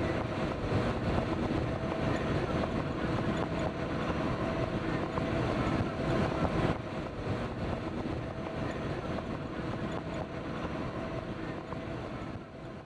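Safari vehicle driving on a rough road, heard from inside: a steady rumble of engine and road noise with a faint hum, fading out near the end.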